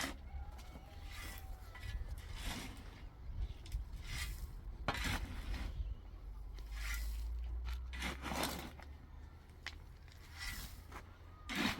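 A hard object scraping over a rough surface in irregular repeated strokes, roughly one every second or so.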